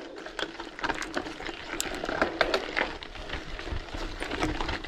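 Mountain bike tyres crunching over loose dirt and stones, with irregular clicks and rattles from the bike, and a low rumble coming in from about four seconds in.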